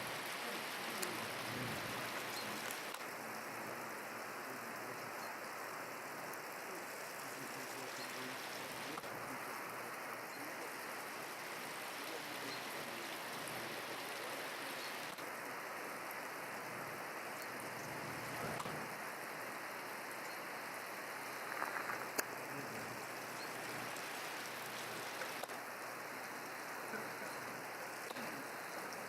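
Staubbach Falls: water falling, a steady, even rain-like hiss of spray and splashing. There are a couple of faint knocks about 22 seconds in.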